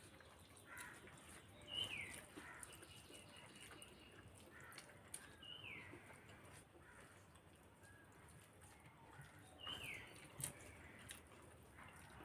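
Faint bird calls: three falling whistled notes a few seconds apart, over quiet room tone with small scattered clicks.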